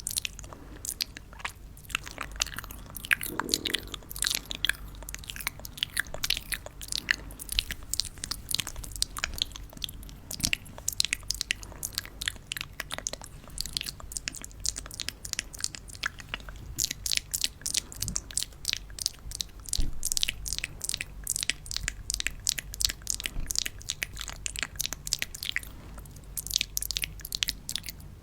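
Close-miked ASMR crunching and crackling: a dense, irregular stream of small sharp clicks and crinkles, with a brief lower rustle about three seconds in.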